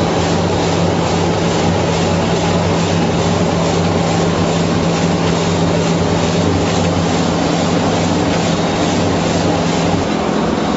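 Industrial vegetable washing machine running with a load of potatoes: a steady motor hum under a dense, even mechanical noise with faint regular pulses. The hum steps up in pitch near the end.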